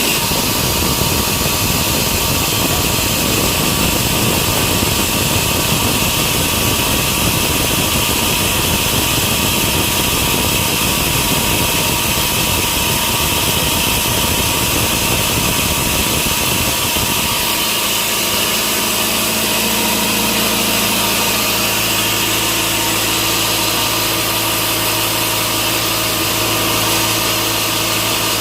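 Sawmill machinery engine running steadily and loudly. About 17 seconds in the rough low rumble drops away and it settles to a steadier hum.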